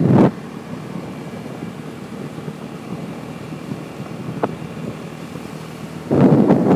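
Wind buffeting the microphone on a moving motorbike, loud at the very start and again from about six seconds in, with a quieter steady rush of riding noise in between and one short click.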